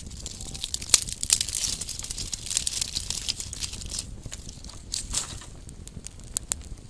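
Small campfire crackling, with sharp pops over a soft hiss; the crackling thickens for a few seconds after a loud pop about a second in, and flares again briefly near the end.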